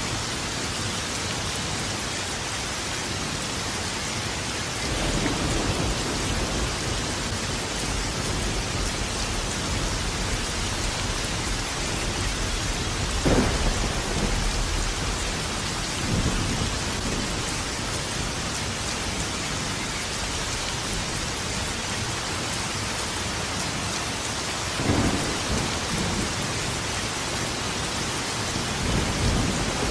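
Steady rain falling hard, with thunder rolling through it. There is a low rumble about five seconds in, a sharper clap of thunder about halfway through, and more rumbles later and near the end.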